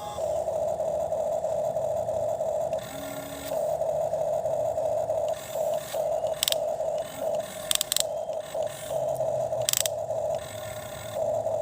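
Small electric motor of a toy excavator whining as it works, cutting out and starting again several times, with a few sharp clicks of its plastic mechanism.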